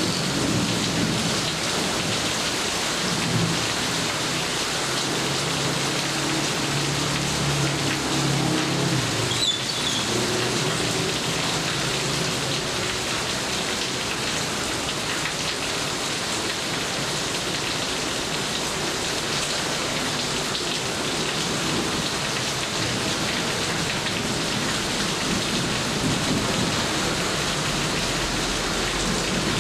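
Steady heavy rainfall, with a low rumble of thunder through roughly the first third.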